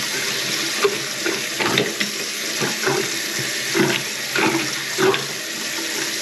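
Tap water running steadily into a sink while its clogged drain is cleaned out, with several short knocks and scrapes over the first five seconds.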